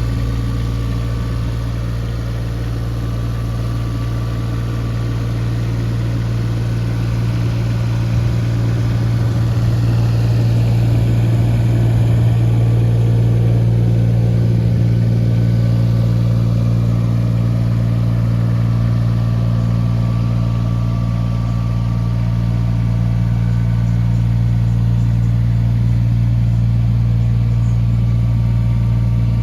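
Volvo EC18E mini excavator's diesel engine running steadily at a low, even speed, a little louder for a few seconds about a third of the way in.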